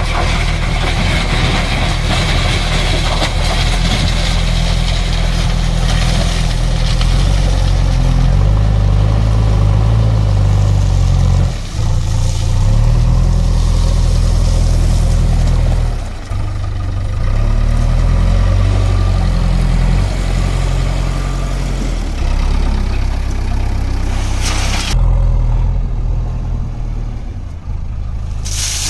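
Heavy diesel engine running, its speed stepping up and down every few seconds as it works under load, with short dips in level twice.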